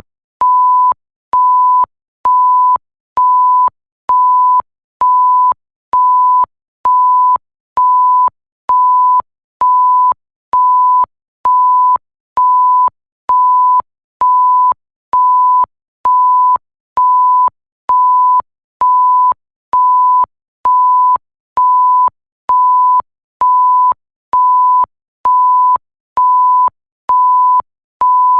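Electronic bleep tone near 1 kHz, a single pure pitch repeating evenly about once a second, each beep roughly half a second long, with a faint click as each one starts and stops.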